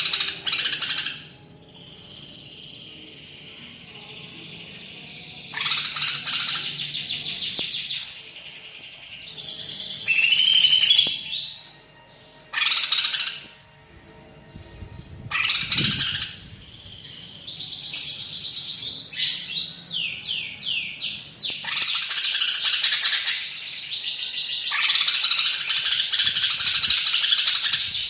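A cucak ijo (green leafbird) singing in loud bursts of rapid chattering trills and quick rising whistled notes, with short pauses between phrases. This is the full, varied 'gacor' song stuffed with imitations of other birds.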